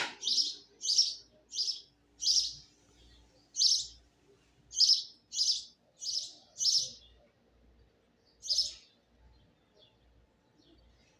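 A bird chirping close by: about a dozen short, high chirps in an uneven run, then only faint chirps for the last couple of seconds.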